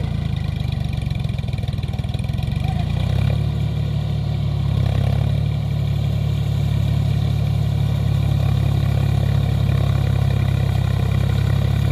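John Deere tractor's diesel engine running steadily, its note shifting and settling a little louder about three seconds in.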